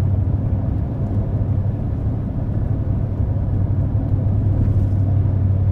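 Steady engine and road noise heard from inside a moving vehicle's cabin: a constant low hum with a rumble of tyre noise.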